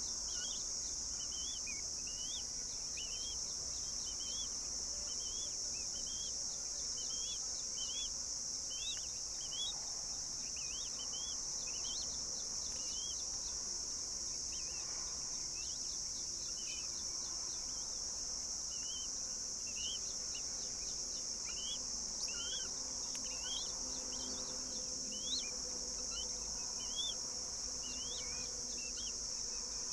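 A steady, high-pitched insect drone, with short bird chirps repeated more than once a second over it.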